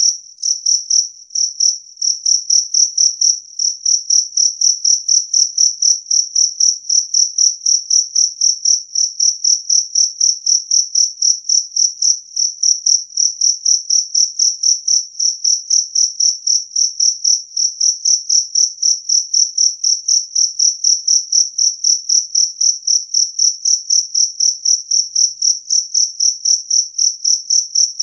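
Jangkrik kalung, the two-spotted field cricket, chirping loudly and steadily at about three short, high chirps a second.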